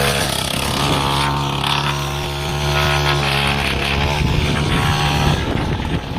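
Small motocross bike engine running at a steady speed, its note changing and dropping away about five seconds in.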